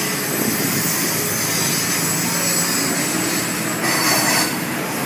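Freight cars of a passing mixed freight train rolling along the track, wheels squealing against the rails over a steady rumble. The squeal swells louder about four seconds in.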